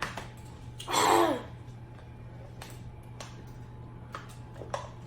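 A short wordless voice sound about a second in, then a few faint clicks and taps from eating at the table, over a low steady hum.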